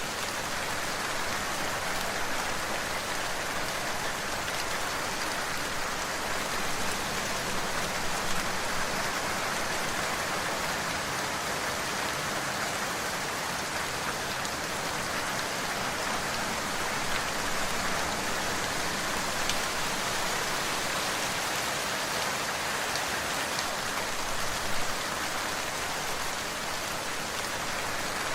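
Steady rain falling, a dense even hiss of drops with a few sharper individual drop ticks.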